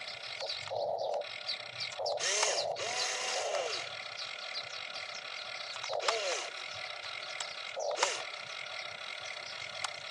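Electric motors of a radio-controlled excavator whining in short bursts, each dipping and rising in pitch, with a few sharp clicks over a steady mechanical hiss.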